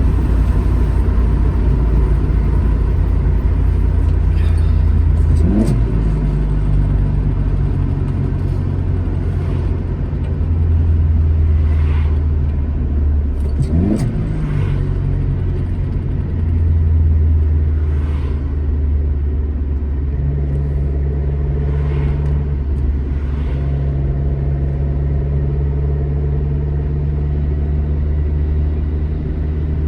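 Alfa Romeo GT Junior's twin-cam four-cylinder engine pulling steadily on the road. About five and a half seconds in and again about fourteen seconds in, the engine note breaks and sweeps quickly up before settling at a new steady pitch, as with gear changes.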